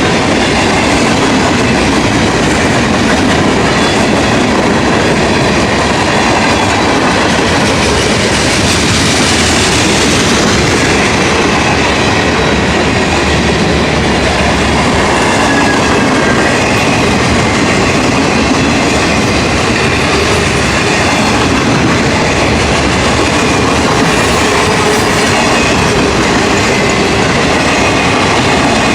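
Freight train cars rolling past at speed, a steady loud noise of steel wheels on rail with clickety-clack over the joints and faint, wavering high-pitched wheel squeal.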